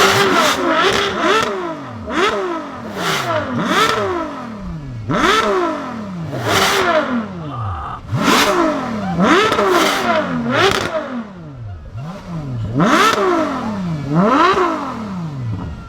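Two naturally aspirated Ferrari V12s, the F12tdf's 6.3-litre and the 599 GTO's 6.0-litre, revved together while standing still. There are more than a dozen sharp throttle blips, each climbing quickly in pitch and falling back, with the two engines' revs overlapping.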